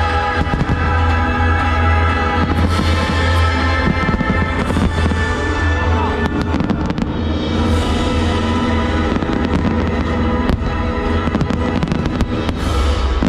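Fireworks display going off: many sharp bangs and crackles of bursting shells in quick succession, over loud music with a steady deep bass.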